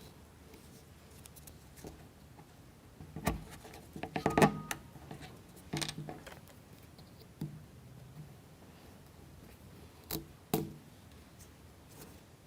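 Excess wooden toothpick pegs of a plywood model kit being cut off, with sharp snips and clicks of wood spaced a second or two apart; the loudest cluster comes about four and a half seconds in.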